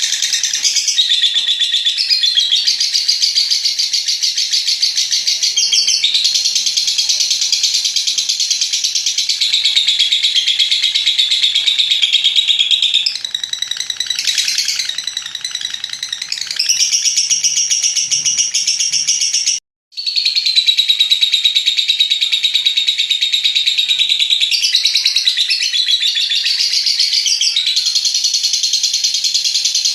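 Lovebird's long, rapid, high-pitched chattering song (long ngekek), running on in long unbroken stretches. It cuts out for a split second about two-thirds of the way through.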